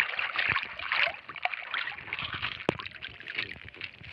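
Crinkling and rustling of old plastic being pulled from wet riverbank mud and water, with irregular small clicks and splashes.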